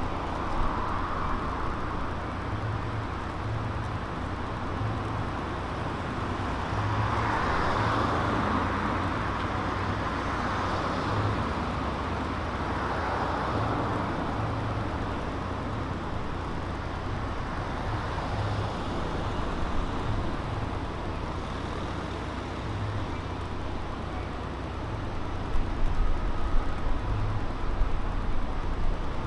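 City street traffic: cars passing one after another, each swelling and fading over a few seconds, over a steady hum of traffic. A louder low rumble comes in near the end.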